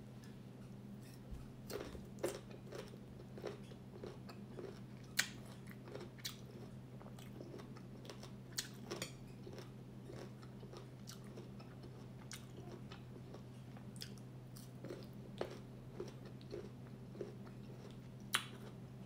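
Close-up chewing and biting of crunchy unripe green mango: irregular sharp crunches, the loudest about five seconds in and near the end, over a steady low hum.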